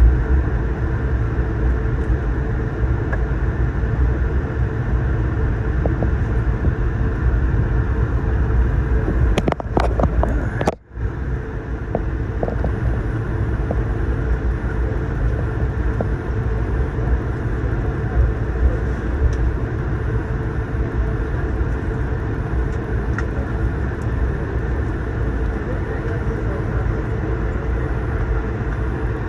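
Steady low rumble of an Airbus A220-300 airliner heard from inside the cabin, from its engines and the airflow around it. The sound cuts out briefly about eleven seconds in.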